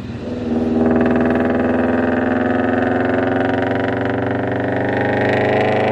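Car engine and exhaust droning under steady acceleration, its pitch climbing slowly and evenly after a brief dip at the start.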